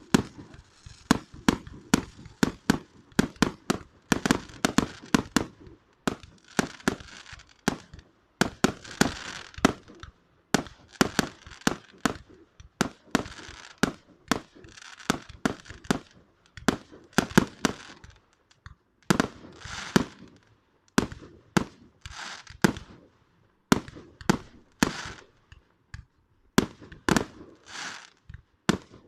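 Fireworks going off: an unbroken run of sharp bangs, several a second at uneven spacing, with stretches of crackling and hissing between them.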